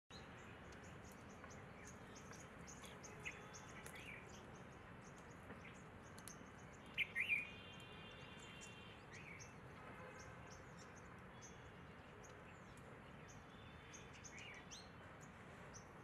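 Faint steady background hiss with scattered short bird chirps. The loudest is a quick run of three sharp chirps about seven seconds in, followed by a brief buzzy call.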